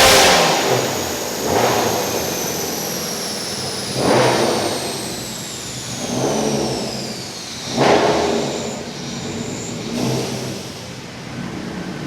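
Subaru STI's turbocharged flat-four on a chassis dyno coming off a full-throttle pull and dropping back. The engine surges briefly about every two seconds, four times in all, while a high whine falls slowly in pitch as things spin down.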